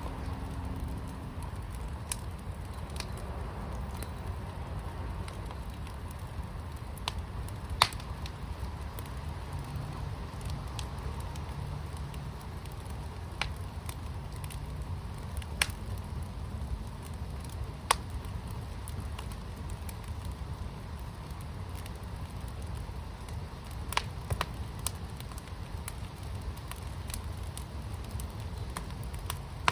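Fire pit burning: a steady low rumble of flames with sharp crackles and pops every few seconds.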